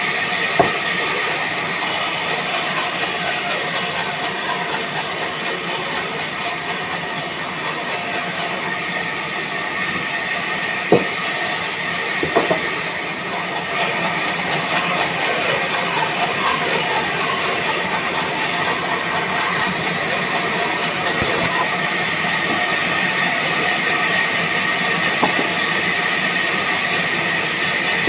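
Sawmill machinery running steadily, a constant high whine over a loud hiss, with a few sharp knocks about a third of the way through.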